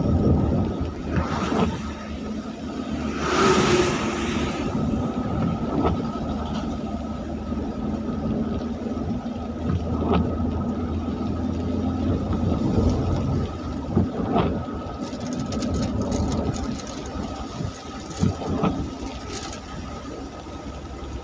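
Road traffic on a rain-wet road: a vehicle engine hums steadily, with a louder rush of a passing vehicle about three to four seconds in.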